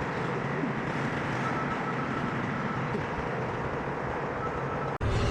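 Steady running noise of heavy vehicles or machinery at a loading yard, a diesel-engine hum under a noisy wash.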